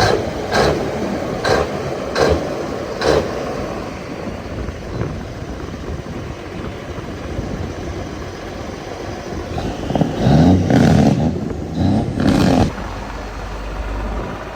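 Diesel truck engine running, with four short sharp bursts in the first three seconds and a louder surge lasting a couple of seconds about ten seconds in.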